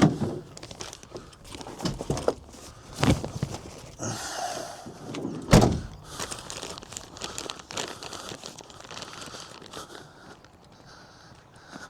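Handling noises while looking for a tool: several sharp knocks and thumps, the loudest about five and a half seconds in, with rustling and rummaging in between.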